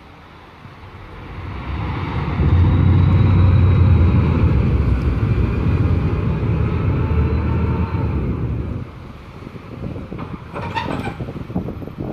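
Passenger ferry's engines running up as the ferry gets under way from the wharf. A loud, low engine rumble swells about two seconds in, holds steady, then eases off around nine seconds in.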